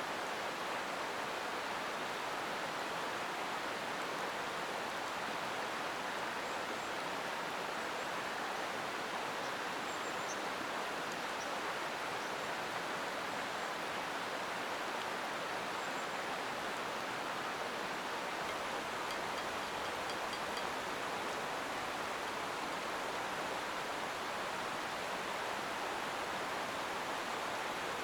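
Mountain stream running steadily, an even rushing of water, with a few faint high chirps around the middle.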